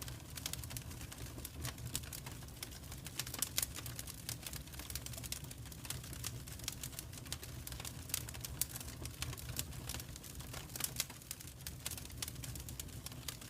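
Wood fire in a fireplace crackling: irregular sharp pops and snaps, a few louder ones, over a steady low rumble.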